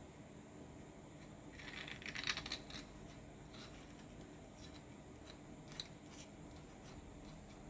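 Small hard parts being handled and set down: a short flurry of clicks and scraping about two seconds in, then a few scattered light ticks, over a steady low hum.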